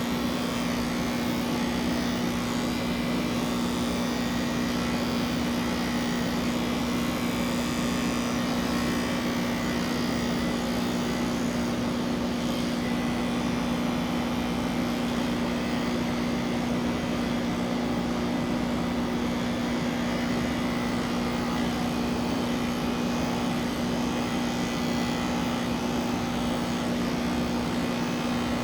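Electric pet grooming clippers running steadily through a cat's coat, a constant hum.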